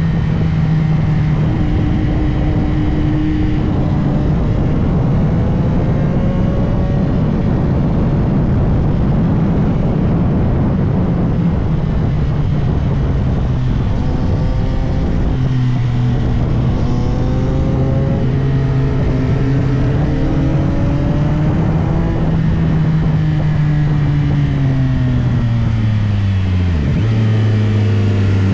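CFMOTO 675SR-R's inline-three engine running under a rider, its note rising and falling through the gears, with a sharp drop in revs and a pick-up again near the end, over steady wind rush.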